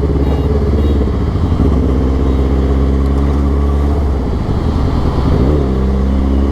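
Kawasaki ZX-10R's inline-four engine running through an Austin Racing aftermarket exhaust while riding at a steady pace, with a brief drop and recovery in revs about four to five seconds in.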